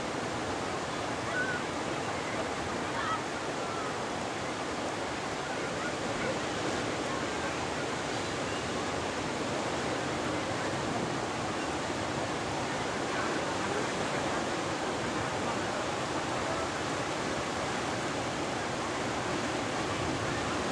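Ocean surf, waves breaking into a steady, continuous wash of water noise.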